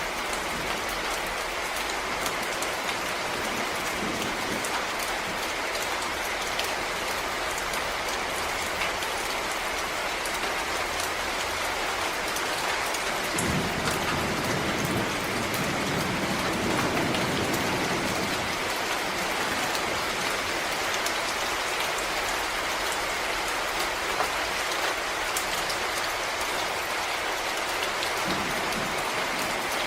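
Steady rain falling on forest leaves and ground, an even hiss with individual drops ticking through it. About halfway through, a low rumble swells for roughly five seconds and fades.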